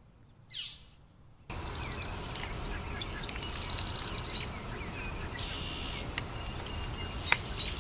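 Birds chirping and calling over steady outdoor background noise, with a quick trill among the chirps. The noise starts abruptly about a second and a half in, after a near-quiet opening with one short falling sound, and there is a sharp click near the end.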